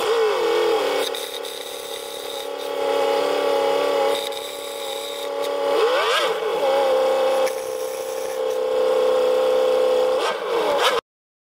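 Handheld electric power tool motor running steadily at a high whine. Its pitch dips and recovers near the start, about six seconds in, and again near the end, as if loaded and eased. The sound cuts off abruptly just before the end.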